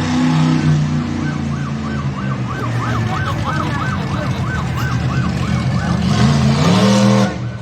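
Monster truck engine running loud with a fast, yelping siren-like warble about three times a second over it. Near the end the engine revs up in a rising sweep, then drops off.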